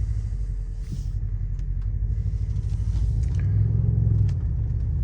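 Mercedes-AMG C 63's twin-turbo V8 with a custom exhaust, running at low revs on a cold engine while the car rolls slowly. It swells slightly about three and a half seconds in, then eases back.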